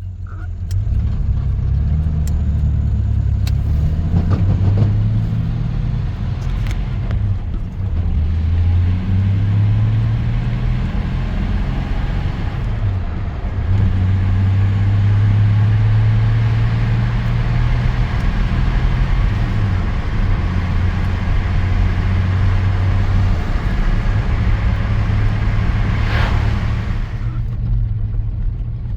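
Chevrolet S-10 pickup driving, its engine and road noise making a steady low rumble whose pitch shifts up and down with speed.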